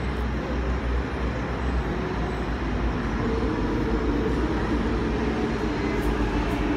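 MTR Ma On Shan Line C-Train electric train running: a steady low rumble with a humming tone that comes in about three seconds in.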